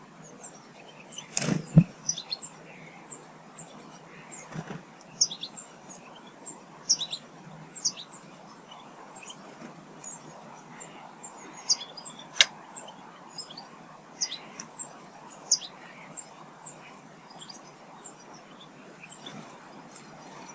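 Small songbirds chirping and twittering, with many short high calls and quick downward-sliding notes throughout. A louder low rustle or thump comes about a second and a half in, a smaller one a few seconds later, and a single sharp click near the middle.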